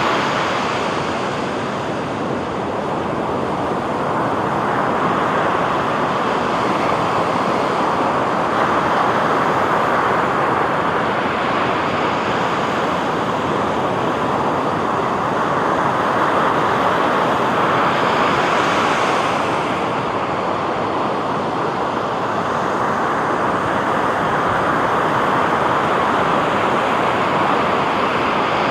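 Ocean surf washing onto a beach: a steady rush of breaking waves that swells now and then, most clearly about two-thirds of the way through.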